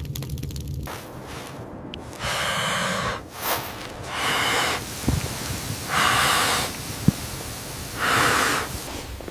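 Breathing: noisy breaths, each under a second long, coming about every two seconds, with a couple of small clicks between them.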